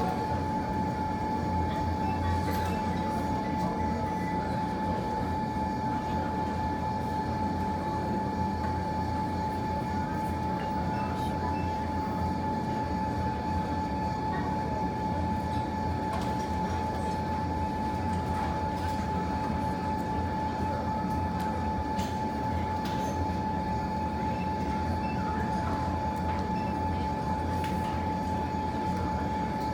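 Fireplace fire burning with a steady low rumble and faint scattered crackles, over a constant thin whine.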